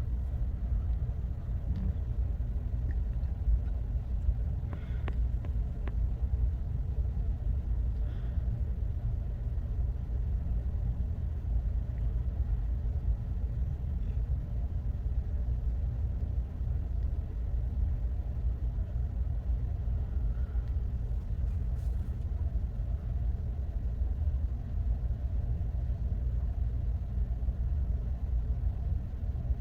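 Ship under way at sea: a steady low rumble from its engines and hull, with a faint hum over it.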